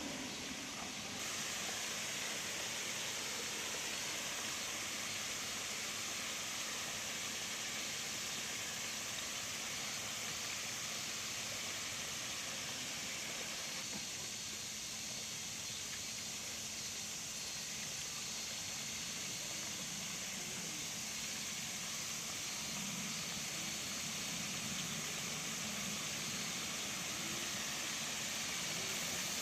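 Steady high-pitched hiss of outdoor background noise, even throughout, with no distinct calls or knocks.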